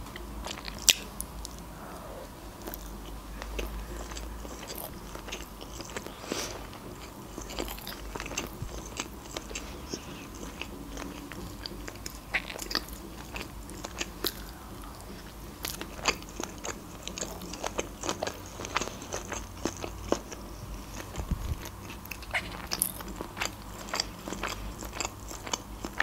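A woman chewing and biting nori-wrapped sushi with fish roe, close to the microphone: many small wet clicks and crunches throughout, with one sharp click about a second in.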